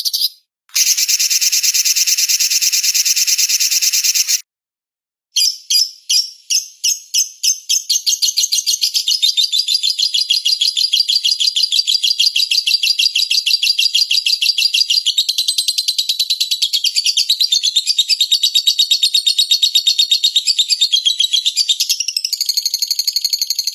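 Recorded songbird calls: a fast high trill, a sudden break, then separate chirps that speed up into a long, rapid continuous trill. The pattern changes shortly before the end.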